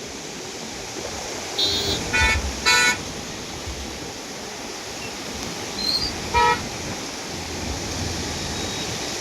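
Steady rush of the flooded Nagavali river under rain, with vehicle horns honking: three short honks about two seconds in and another about six seconds in.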